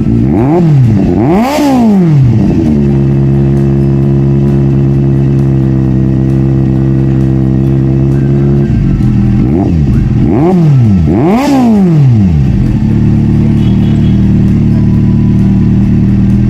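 Kawasaki Z800's inline-four engine idling through a freshly repacked Two Brothers Tarmac exhaust. The throttle is blipped twice in quick succession at the start and twice again about ten seconds in. Each blip rises and falls back to a steady idle.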